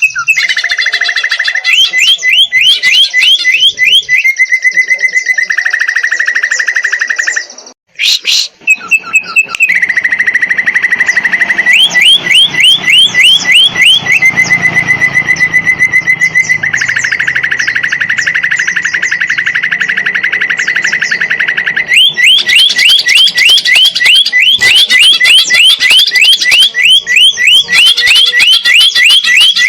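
Green leafbird (cucak ijo) singing loudly, alternating fast trills of short upswept notes with long, even rattling phrases on one pitch. The song stops briefly about eight seconds in, then carries on.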